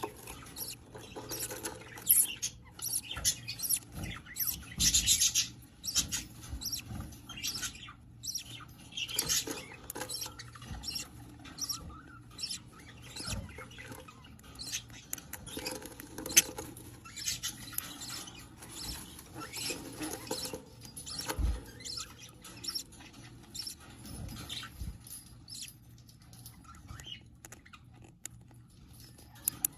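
Budgerigars, a parent feeding its chick, giving many short, irregular high-pitched squeaky chirps mixed with scratchy rustling; the chick's calls are the begging of a nestling being fed.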